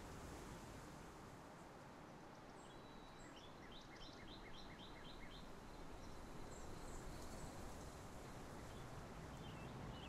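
Faint bird chirping over a steady background hiss: a run of about eight quick, evenly spaced notes, about four a second, a few seconds in, with scattered single chirps around it.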